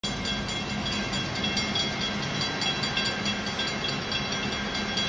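Caltrain commuter train running past a level crossing, heard from inside a stopped car: a steady rail noise with a constant low hum.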